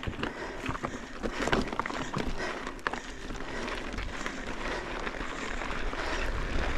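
Mountain bike moving over a rough, technical dirt trail: tyres on dirt and rock, with the bike rattling and scattered sharp knocks and clicks.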